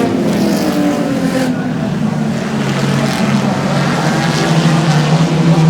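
Race car engines running hard as a pack of cars laps the track. The pitch falls over the first couple of seconds, then holds steady and climbs slightly near the end.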